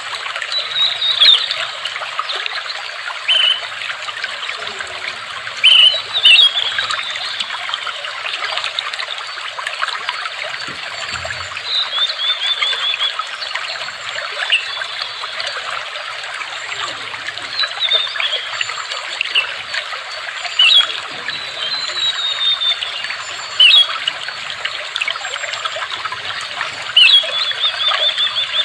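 Water trickling and babbling steadily, with a bird's short, sharp chirps and brief trills breaking in every few seconds above it.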